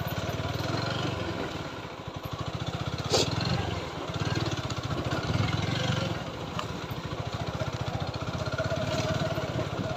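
TVS Apache 4V motorcycle's single-cylinder engine running under way, a steady fast low pulse that swells and eases with the throttle. A sharp knock sounds about three seconds in.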